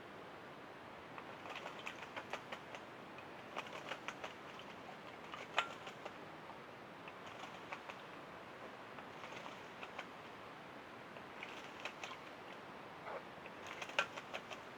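Hooded crow pecking at its bird bath, an oven-dish lid: bursts of quick, light taps and clicks, several in a row, with a single louder tap about five and a half seconds in and another near the end.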